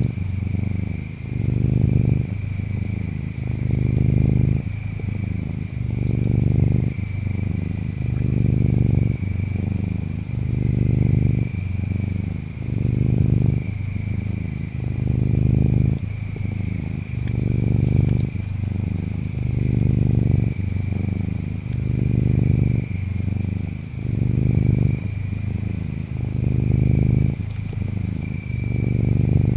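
Ginger tabby cat purring in a steady rhythm, each purr swelling and fading with the breath about every two seconds. Insects chirp behind it: a steady high trill, with even higher buzzing that comes and goes every few seconds.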